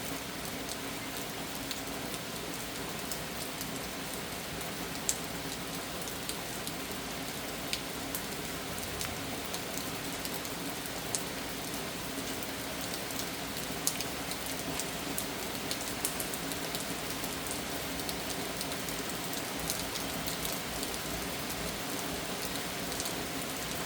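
Steady rain falling, an even hiss with scattered sharper drop ticks, one louder tick about five seconds in. A faint steady hum runs underneath.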